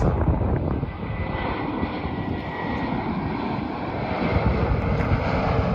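Airliner's engines running loud as the plane passes, a steady rushing roar with a faint high whine.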